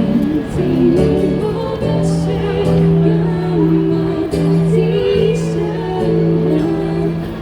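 Live band music: a singer holding a slow melody over instrumental accompaniment with a steady sustained bass note.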